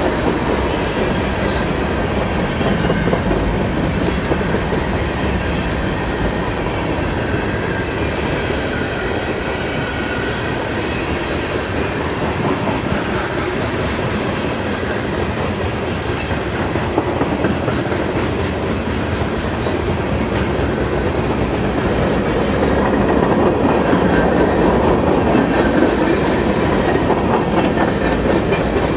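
Train rolling past, its steel wheels clattering steadily over the rails. There is a brief high squeal about twenty seconds in, and the sound grows louder near the end.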